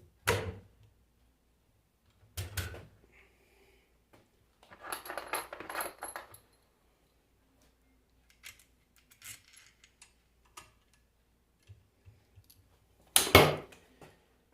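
Metal tools and parts clinking and clattering as they are handled and set down on a workbench: a sharp knock near the start, another about two seconds later, a jingling clatter with a high ring about five seconds in, scattered light clicks, and the loudest knock near the end.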